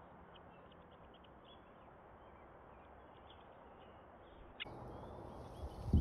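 Faint short bird chirps, repeated many times over a steady outdoor hiss, through a wildlife camera's microphone. Near the end the sound changes abruptly, and a few loud low thumps of handling noise follow.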